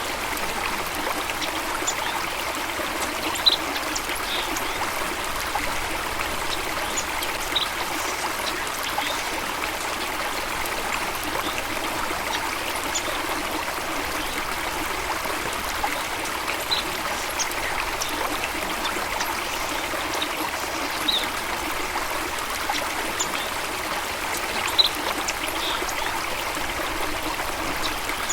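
Running water of a stream flowing steadily, an even continuous rush. A few short high-pitched sounds stand out every few seconds.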